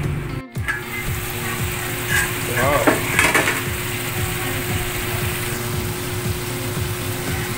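Chicken pieces and chicken liver sizzling as they fry in their own released oil in a metal wok, at the stage where the fat has rendered out. A spatula stirs and scrapes the pan a few seconds in.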